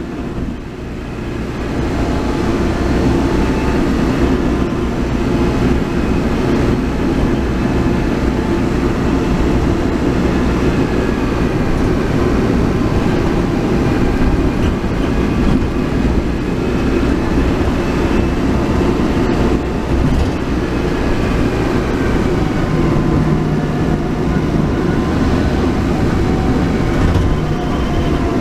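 A car driving, with a steady low rumble of road and engine noise and, above it, a thin whine of several tones that slowly rise and fall with speed. This is the noisy transmission after Maruyama molybdenum additive has been added. The noise builds over the first couple of seconds as the car gets up to speed.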